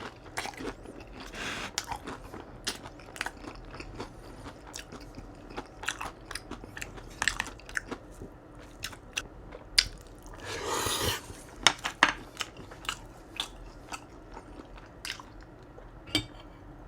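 Close-miked mouth sounds of a person chewing and crunching food, with many short crunchy bites, as in ASMR mukbang eating. A louder rushing sound lasts about a second around ten seconds in.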